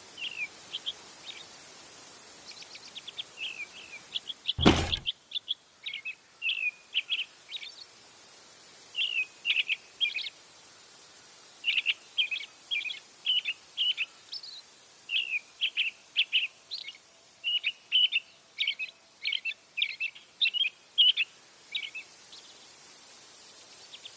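Birds chirping, with many short, high calls repeated in quick clusters over a faint steady hiss. A single loud thump comes about five seconds in.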